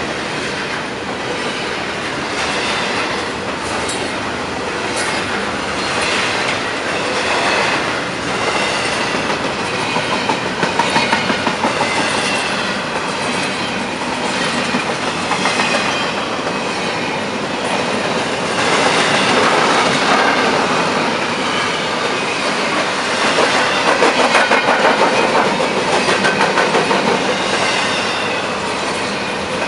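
Double-stack intermodal freight cars rolling past close by: a steady rumble and rattle of steel wheels on rail, with runs of rhythmic clacking as the trucks cross rail joints.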